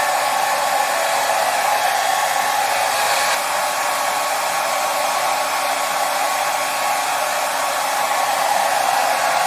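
Hair dryer blowing steadily, a constant rushing hiss with a faint motor hum and no change in speed.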